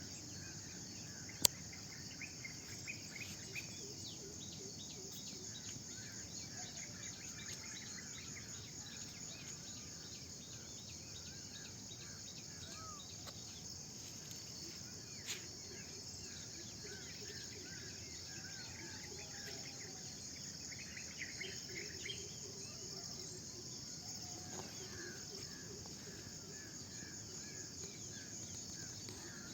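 Early-morning chorus of many birds chirping and calling over a steady high drone of crickets and other insects. One sharp click about a second and a half in.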